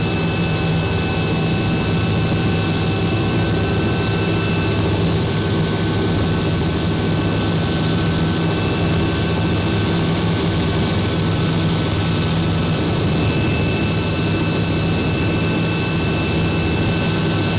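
Helicopter running steadily: an even, loud drone with several steady high whines over it.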